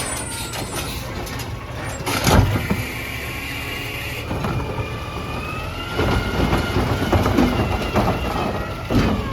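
Peterbilt 320 garbage truck running, with a loud short burst of noise about two seconds in and a higher whine rising slightly from about halfway.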